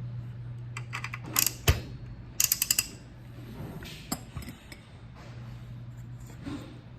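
Metal parts of a torque wrench's ratchet head being handled during repair: scattered sharp clinks and knocks, with a quick run of about six clicks about two and a half seconds in, over a steady low hum.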